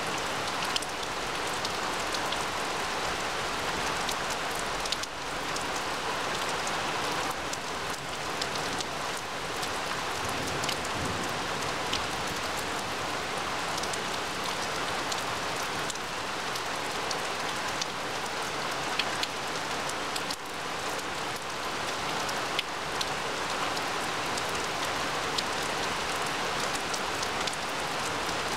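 Steady rain falling on grass and tree leaves: an even hiss with many scattered close drops ticking through it.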